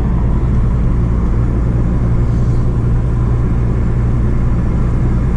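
Audi S3 8P's tuned 2.0 TFSI turbocharged four-cylinder, fitted with an aftermarket downpipe, running steadily with a low drone while the car cruises gently at constant speed, with road rumble underneath.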